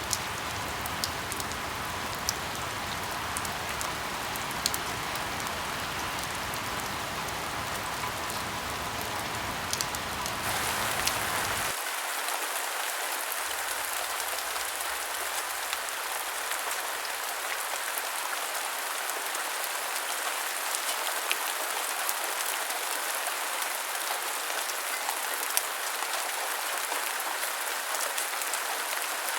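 Steady rain falling, with scattered sharper drop taps. About eleven seconds in the sound shifts to a thinner, hissier rain with the low rumble gone.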